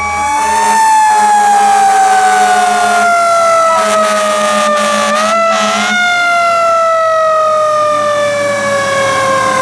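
Fire engine's mechanical siren winding down in a slowly falling wail. It picks up again briefly about five seconds in, then keeps coasting down.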